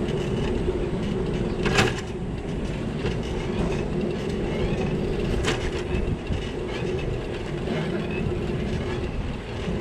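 Steady road and wind noise from a moving bicycle on a wet city street, with a constant hum underneath and two sharp clicks, about two seconds in and again about five and a half seconds in.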